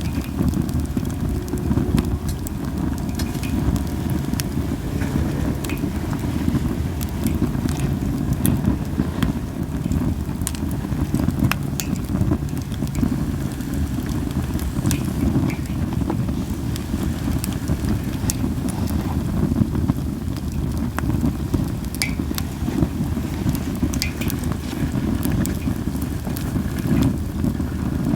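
Linden-wood campfire burning, with scattered sharp crackles and pops over a steady low rumble.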